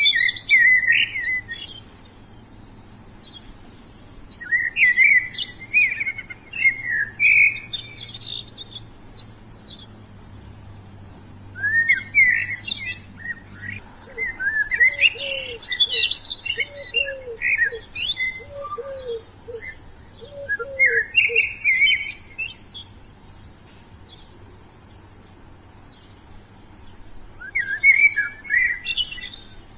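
Wild songbirds singing and chirping in bouts of quick, high, twittering phrases. In the middle a lower bird call repeats about eight times, roughly once a second, under the chirping.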